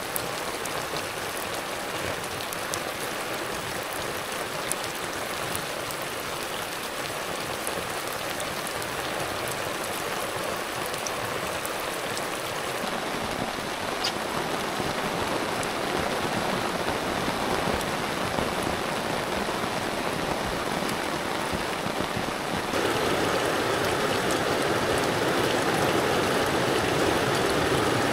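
Heavy rain falling steadily as an even hiss with scattered drop patter. It suddenly grows louder and fuller late on.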